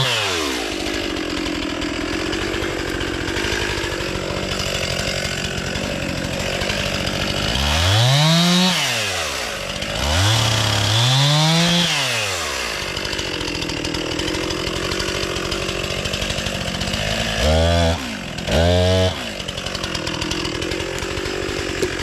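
Two-stroke chainsaw running steadily at idle, revved up and back down a handful of times.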